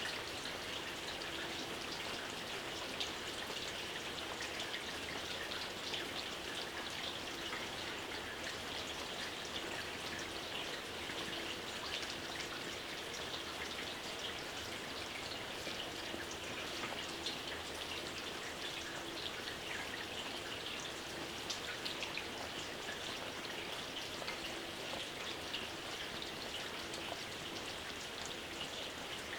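Steady light rain falling, with many small individual drops pattering, even and unbroken.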